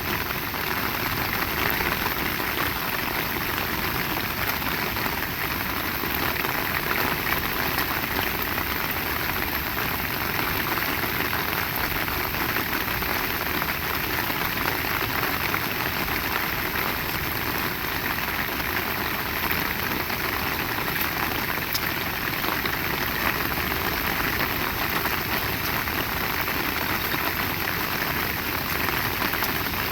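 Heavy rain pouring down steadily, a dense, even patter of drops with no let-up.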